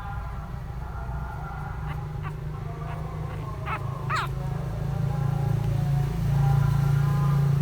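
A puppy gives two short, high yelps about four seconds in, over a steady low rumble.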